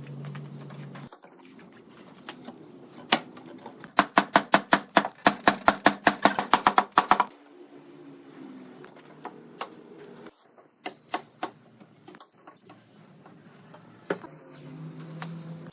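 A quick, even run of sharp taps, about six a second for some three seconds, beginning about four seconds in, with scattered single knocks before and after, over a low steady background hum.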